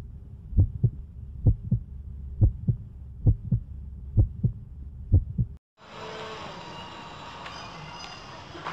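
Heartbeat-like double thumps, a pair just under once a second, over a low hum. They cut off suddenly about five and a half seconds in, and a steady hissing background with faint tones takes over.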